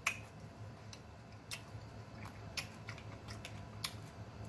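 Close-miked chewing of ripe cantaloupe: a string of short, wet mouth clicks and smacks at irregular intervals, with a faint steady low hum underneath.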